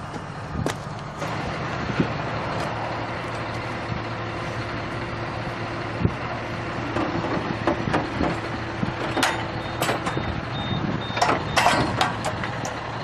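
Heavy vehicle's engine running steadily, with scattered knocks and clanks and a faint high intermittent beep about two-thirds of the way through.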